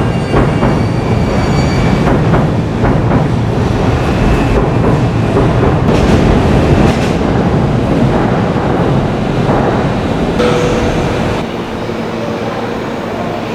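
A train rolling through the station with a loud, steady rumble, its wheels clacking over rail joints and squealing thinly in the first couple of seconds. The rumble eases near the end.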